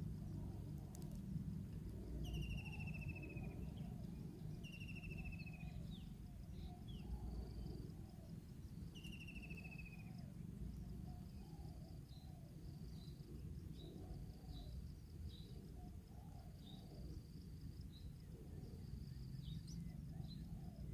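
Bird calls over outdoor ambience: three falling, buzzy calls of about a second each in the first half, then a run of short chirps, over a steady high insect hum and a low rumble.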